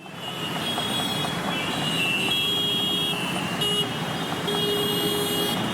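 Busy road traffic with vehicle horns honking: several horns held for a second or so each, overlapping, over a steady din of engines, fading in at the start.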